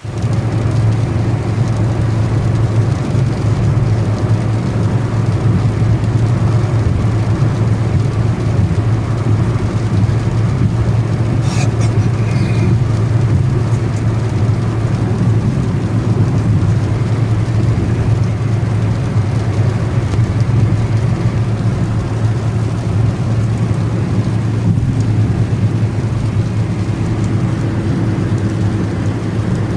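Steady rain noise over a constant low hum, with a brief high-pitched squeak about twelve seconds in.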